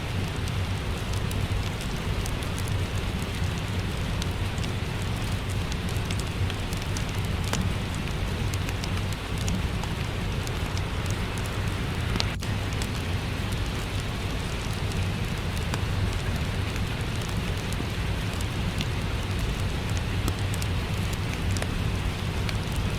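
Steady rain with a fireplace crackling over a low rumble, small pops scattered throughout and one sharper pop about halfway through.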